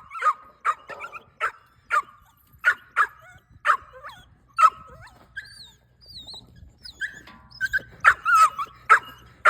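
Pit bull puppies yipping and whining: short high yelps about once a second, a few thin whines partway through, then quicker yelps near the end.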